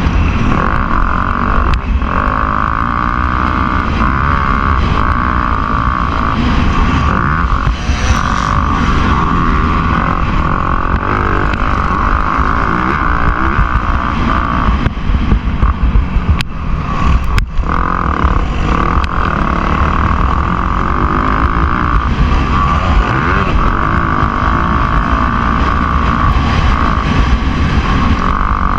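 Motocross bike engine running hard during a race, its pitch rising and falling as the rider works the throttle, cutting out briefly twice about two thirds of the way through.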